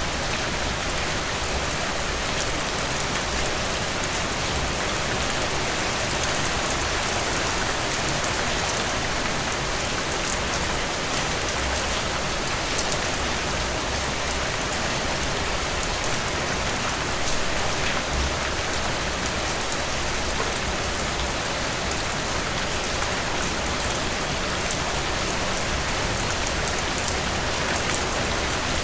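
Steady rainfall, with a dense patter of raindrops hitting a surface.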